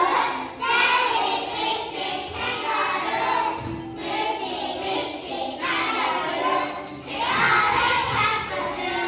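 A group of young children singing together over music, in phrases a few seconds long.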